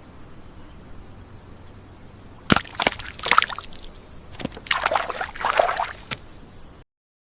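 Water splashing: a few sharp splashes about two and a half seconds in, then a longer run of sloshing splashes, after a stretch of faint steady background hiss. The sound cuts off abruptly near the end.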